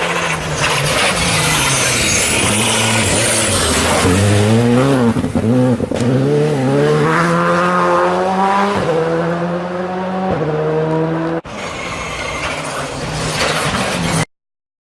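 Skoda rally car engine revving hard, its pitch climbing and then dropping at each gear change. The sound cuts off suddenly near the end.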